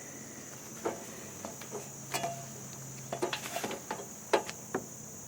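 Steady high-pitched insect chorus, like crickets, with a scattered series of light knocks and clicks of handling close by.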